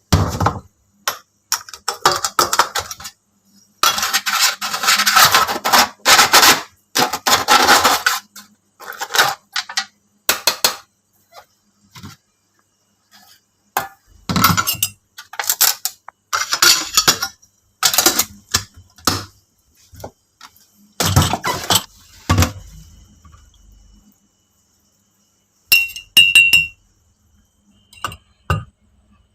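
Dishes, pots and kitchen utensils clinking and clattering in irregular bursts, with some longer stretches of scraping and rattling.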